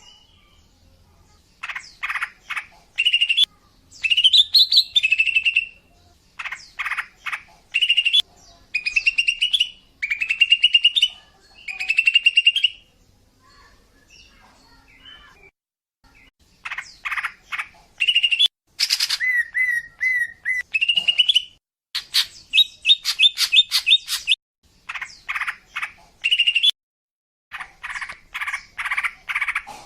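Female green leafbird (cucak ijo) calling in repeated bouts of quick chirps and short whistled notes that rise and fall, with a quieter stretch about halfway through. This is a female call of the kind played to lure male leafbirds in.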